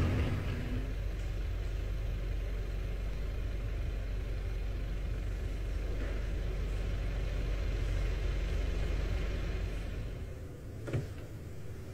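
Audi Q3's engine running at low speed, a steady low rumble that fades away near the end, with a single short knock just before the end.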